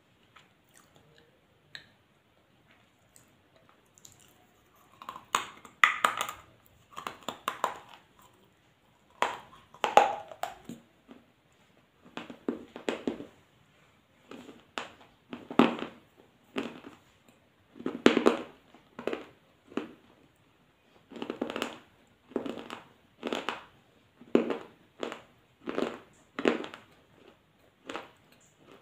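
A person chewing food close to the microphone, with wet mouth sounds in a steady rhythm of about one chew a second, starting a few seconds in.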